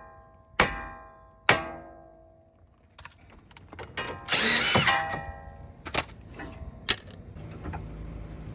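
Hard metal-on-metal strikes on steel suspension parts, each one ringing on, twice in the first two seconds. About four seconds in comes a loud rasping burst of roughly a second, then a few sharp clicks.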